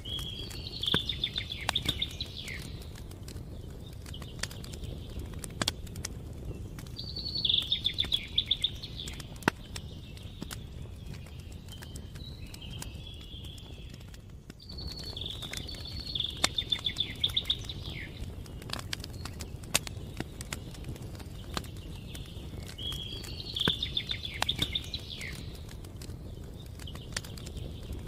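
Campfire crackling with many sharp pops, while a songbird sings a short trilled phrase of about two seconds four times, roughly every seven to eight seconds.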